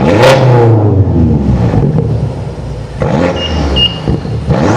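V8 performance car exhaust revved in three sharp throttle blips. After each one the engine's pitch jumps up and then falls back toward idle.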